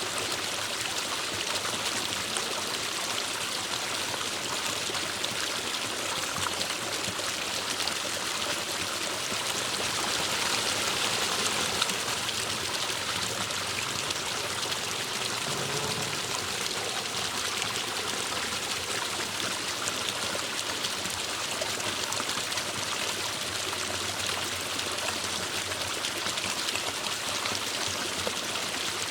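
Forest stream flowing over rocks: a steady rush and trickle of water, swelling slightly a little over a third of the way through.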